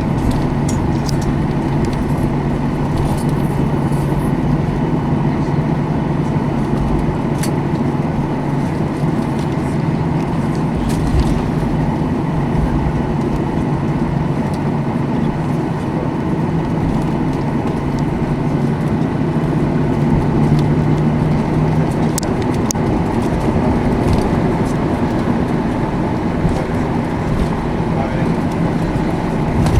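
Cabin noise of a Boeing 737-800 taxiing after landing: its CFM56 engines at idle give a steady hum with a low droning tone, which shifts about two-thirds of the way through. A few faint clicks are heard.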